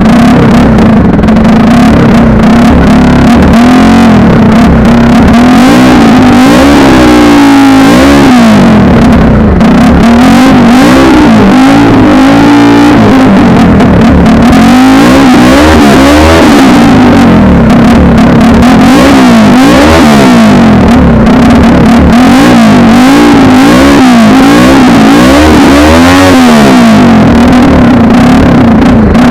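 TVS Apache RTR 200's single-cylinder engine idling loudly through a full-system MotoGP-style aftermarket exhaust, revved in short throttle blips again and again between stretches of steady idle.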